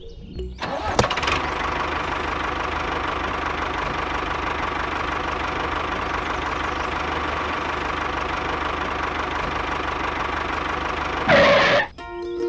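Motor of a miniature DIY tractor running steadily, engine-like with a constant hum. A brief louder rush comes about eleven seconds in, then it cuts off.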